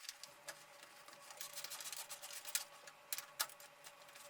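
Faint small metal clicks and scraping as bicycle hub parts are handled and tried together by hand.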